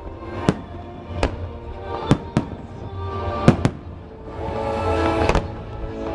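Aerial fireworks bursting in sharp bangs, about seven of them, a couple coming in quick pairs.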